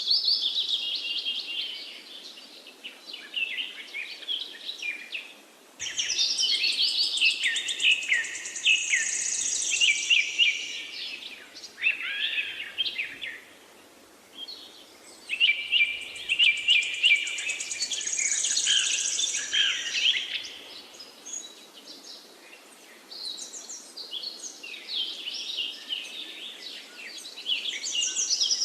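Several birds singing and chirping in bouts of a few seconds, with short lulls between them, over a faint steady background hiss.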